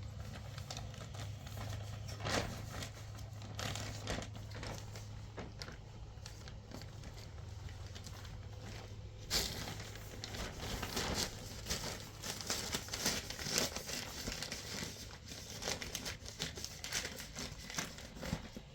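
Irregular crinkling and rustling of something being handled, with scattered small clicks, getting busier and louder about nine seconds in, over a steady low hum.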